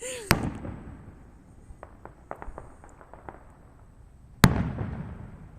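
Fireworks bursting: a sharp bang just after the start, a scatter of small crackling pops, then a louder bang about four and a half seconds in that dies away over about a second.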